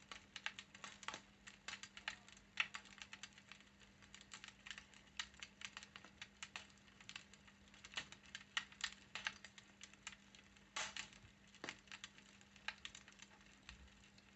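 Fireplace ambience played back through a smart speaker: a wood fire crackling, with irregular quick pops and snaps of varying strength over a faint steady hum.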